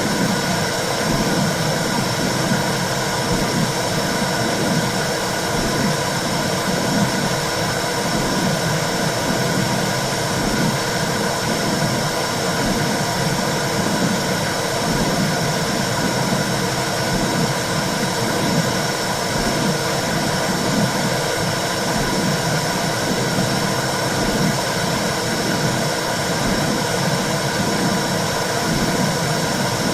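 Womb sound for calming a baby: a steady whooshing noise with a low, soft pulsing about once a second, like a heartbeat heard through the body.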